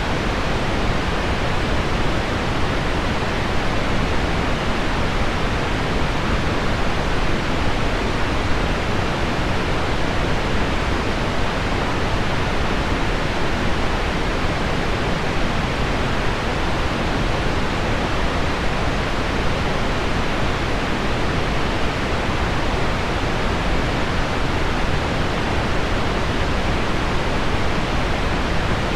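Heavy rain on window glass mixed with low-frequency pink noise: a steady, unbroken hiss weighted toward the low and middle range, with no separate drops or changes.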